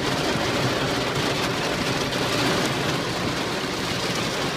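Heavy rain beating on a car's windshield and roof, heard from inside the car as a dense, steady hiss.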